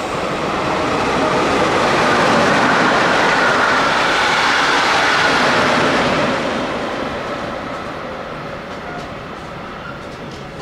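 A long container freight train rolling past on the electrified double-track line, its steady wheel-and-rail noise joined by an electric-hauled passenger train passing on the other track. The combined noise swells about a second in, holds to about six seconds in, then fades while the container wagons keep rolling by.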